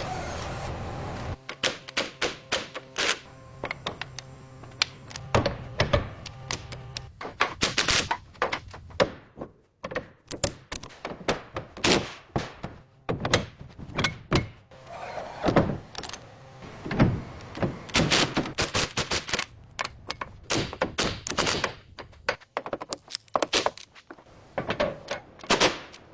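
Many sharp, irregular knocks and clicks, like hand tools and metal parts being worked on a car, following a steady low hum that stops about a second in.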